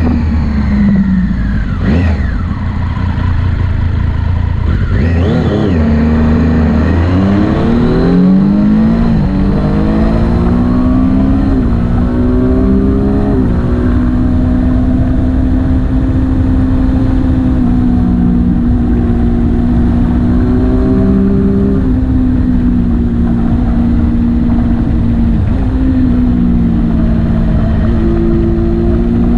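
Motorcycle engine under way: its note climbs in stepped surges as it accelerates up through the gears, then holds a steady cruising pitch with brief dips as the throttle eases and opens again, over a low rush of wind and road noise.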